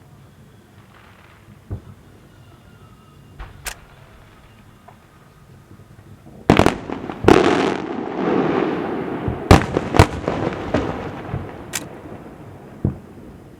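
Fireworks going off: a few scattered bangs, then about halfway through a rapid run of loud bangs with a spell of crackling. A few single reports follow near the end.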